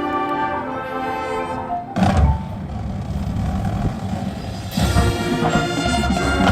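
High school marching band playing: held wind chords, then about two seconds in a sudden loud hit from the full band with heavy low brass and drums, building again near the end.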